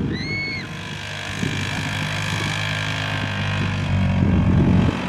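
A motor vehicle's engine running steadily as it tows a sled across the snow. A short high-pitched squeal rises and falls once in the first half-second.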